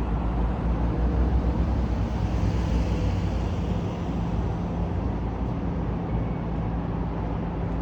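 Steady parking-lot ambience of car engines idling, a constant low hum with no single event standing out.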